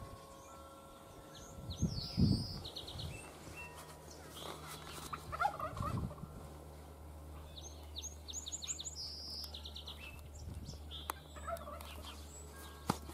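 Bird calls outdoors: bouts of rapid rattling calls about two seconds in and again about eight seconds in, with a few lower calls between, over a low steady hum.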